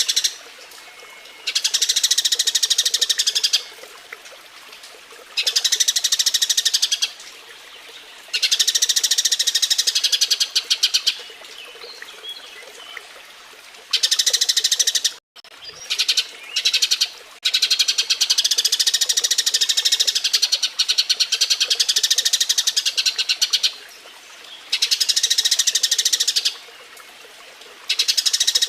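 Eurasian tree sparrows giving their mating chatter: bouts of rapid, high chirps a couple of seconds long, separated by short pauses, with one longer bout in the second half and a brief dropout about halfway through.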